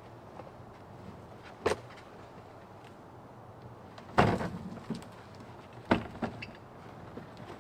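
Three knocks, the second and loudest about four seconds in with a short rattle after it, plus a few faint clicks.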